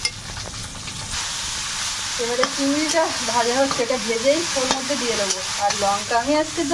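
Prawns frying in hot oil in a metal kadai, sizzling steadily while a metal spatula stirs and scrapes them around the pan. From about two seconds in, a person's voice is heard over the sizzling.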